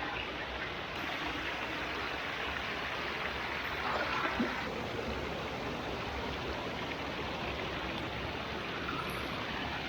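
Steady rushing of a rainforest stream running over rocks, a little louder for a moment about four seconds in.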